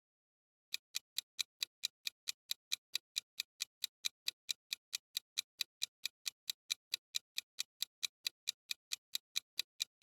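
Clock-like ticking sound effect, about four to five even ticks a second, starting just under a second in: a quiz countdown timer running while the question is on screen.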